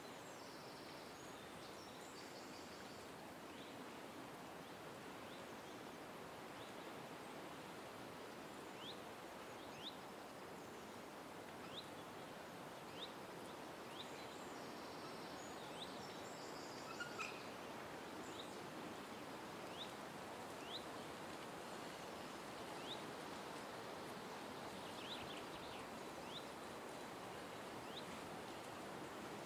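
Birds chirping in a park, short, quick high notes repeated every second or two, with a few brief higher twittering calls, over a faint steady outdoor background hiss.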